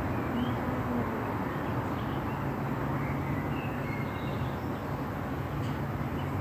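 Light rain falling: a steady hiss with a low rumble underneath and a few faint high chirps.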